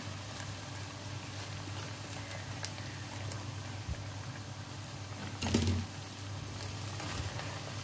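Okra and onions sizzling softly in hot mustard oil in a pot, a steady crackle over a low steady hum, with a brief knock about five and a half seconds in.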